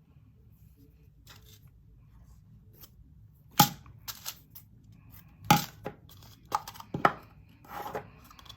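Small plastic bags and storage containers of diamond-painting drills being handled: a few sharp plastic clicks with some rustling, starting a few seconds in.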